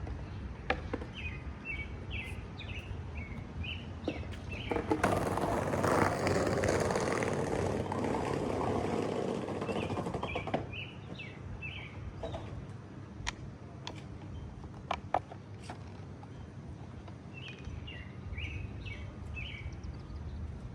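Small birds chirping in short bursts near the start, in the middle and near the end. A loud rushing noise swells up about five seconds in and fades after another five seconds, and a few sharp knocks follow, over a low steady outdoor rumble.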